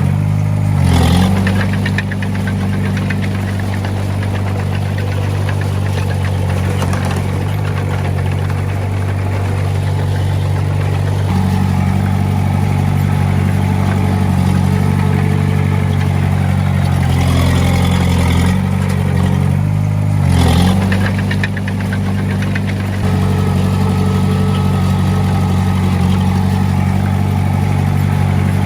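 Diesel engine of an earthmoving machine running steadily, its pitch shifting a few times as throttle or load changes, with a short noisy burst about two-thirds of the way in.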